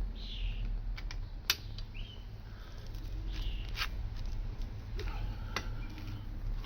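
A wrench working the wheel nuts loose, giving scattered sharp metallic clicks and knocks, about five over the few seconds, over a steady low hum.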